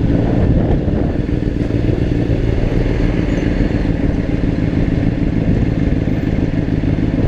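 Honda CBR600RR's inline-four engine running at a steady cruising speed, its pitch holding level, with wind rushing over the microphone.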